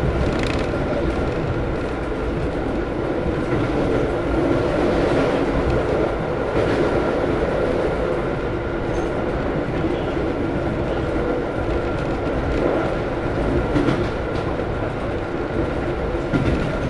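Moving passenger train heard from inside the carriage: a steady rumble of wheels on rails with a thin steady whine, and a few faint knocks over rail joints.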